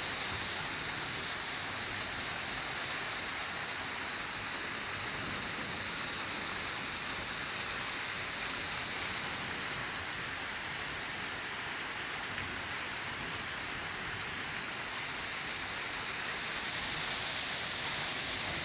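Storm rain pouring down steadily, a dense even hiss.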